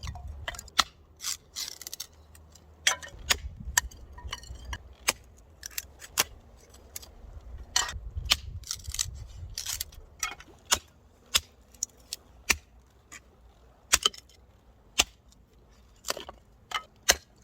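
Knife working cypress firewood, with sharp irregular cracks and snaps as thin pieces split and splinter off, roughly one a second.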